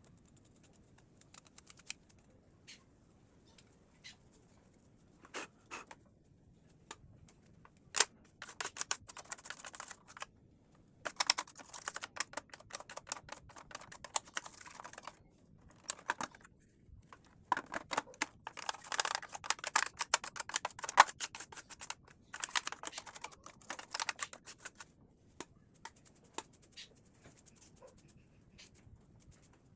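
Plastic parts of a Roomba robot vacuum being handled and taken apart by hand: scattered sharp clicks, then longer stretches of rapid clicking, rattling and scraping, busiest in the middle and easing off near the end.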